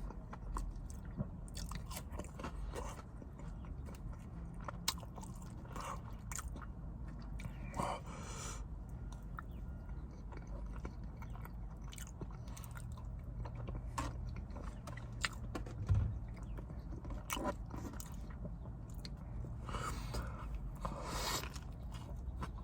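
A person chewing and biting into food close to the microphone: fried chicken sandwich and fries. Soft mouth clicks run throughout, with a few louder bites about 6, 8 and 21 seconds in.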